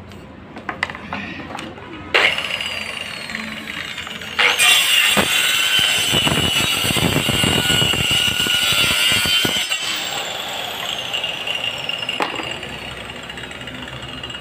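An electric power tool running steadily with a constant whine. It starts about two seconds in, gets louder about four and a half seconds in, and eases off a little about ten seconds in.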